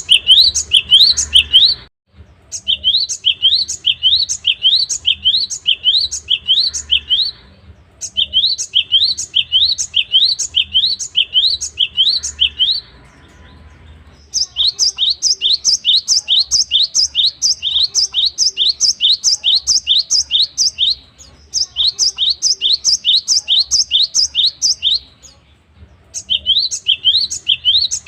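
Cinereous tit (gelatik batu) singing loudly: fast runs of sharp, high, rising notes, several a second. The song comes in five bouts of a few seconds each, broken by short pauses.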